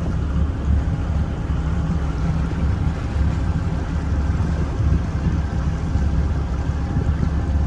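A cruise boat's engine running steadily under way, a constant low drone, with wind buffeting the microphone.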